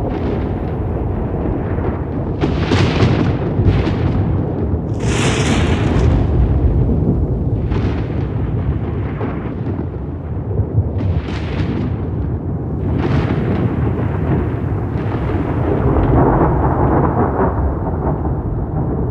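Rolling thunder: a continuous deep rumble broken by several sharper cracks, the brightest about five seconds in.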